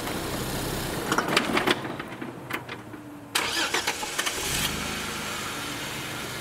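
Jeep Wrangler JK Rubicon's engine running, then dropping away about two seconds in; a little past three seconds a sudden burst of cranking starts and the engine catches and runs steadily again, an engine restart on the rock step.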